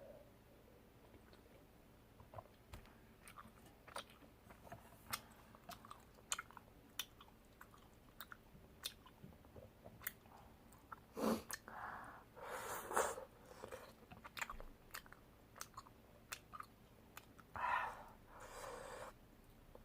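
A person chewing spicy tteokbokki rice cakes close to the microphone: many sharp mouth clicks throughout, with a few louder, noisier bursts around the middle and again near the end.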